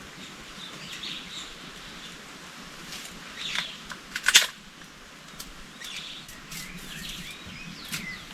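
Birds chirping and calling in short curved notes, with a few sharp clicks or knocks about four seconds in.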